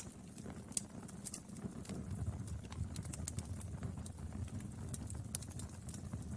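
Wood fire burning, with scattered sharp crackles and pops over a low rumble of the flames.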